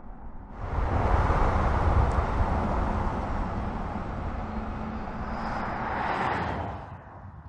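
Audi e-tron GT quattro, an electric car, driving by: mostly tyre and rushing-air noise. It starts abruptly about half a second in and fades near the end.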